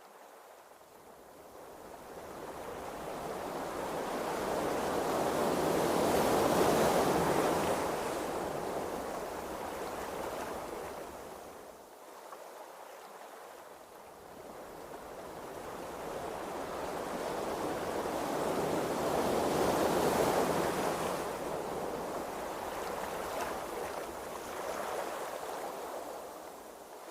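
Ocean waves washing at sea: an even rushing noise that swells slowly twice, loudest about seven and twenty seconds in, with a lull between.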